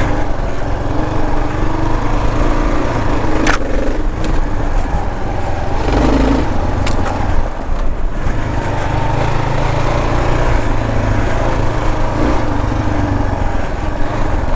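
Kawasaki KLR650's single-cylinder engine running under way on a dirt trail, easing off briefly partway through, with a couple of short sharp knocks.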